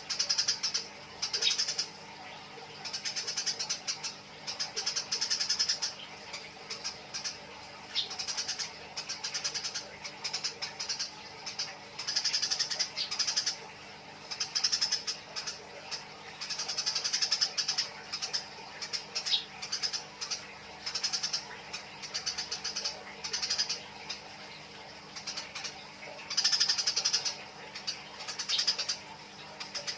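Eurasian tree sparrows fighting, giving rapid, harsh chattering chirps in repeated bursts about a second long with short pauses between.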